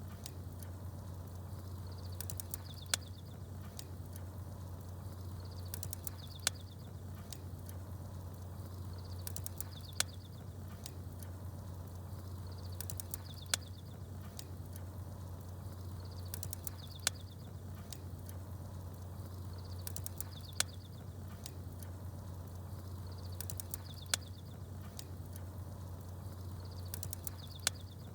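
Campfire crackling, with a sharp pop and a few small bird chirps, over a steady low hum. The same pattern comes round evenly about every three and a half seconds.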